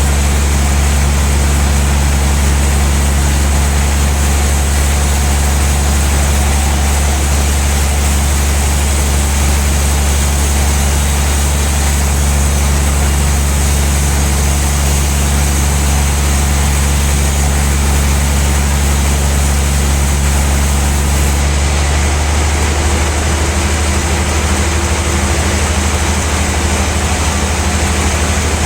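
A large sawmill band saw runs steadily with a loud low hum and a wide hiss. About three quarters of the way through, the highest part of the hiss drops away and the hum changes, as the saw's load shifts.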